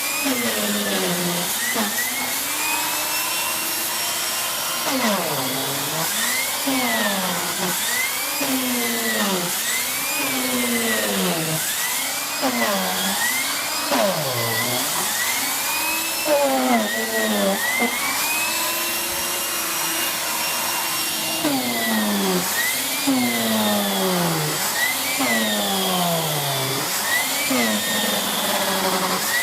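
Miele S6 Cat and Dog cylinder vacuum cleaner with a 2000 W motor running continuously. Its motor note falls and rises again roughly every second or so as the floorhead is pushed back and forth.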